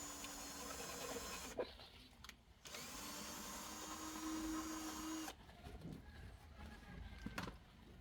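A handheld power tool's electric motor running in two bursts, the second starting a little under three seconds in and rising slightly in pitch, with a sharp knock between them and a few lighter knocks after.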